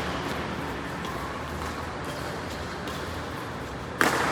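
Steady background hum, then a single sharp crack near the end of a badminton racket striking a shuttlecock.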